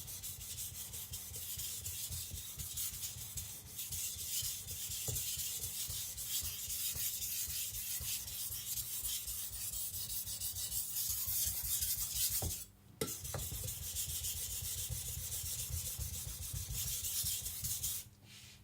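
Shirogami carbon-steel nakiri blade being stroked rapidly back and forth on a Naniwa Professional water stone: a continuous wet scraping, with a short break about twelve seconds in and a stop near the end. The knife has just been flipped, so this is the second side of the edge being ground.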